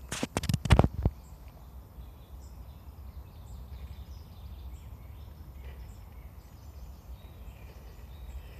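Several sharp scrapes and knocks in the first second, then outdoor ambience: a steady low rumble with scattered faint high chirps and ticks.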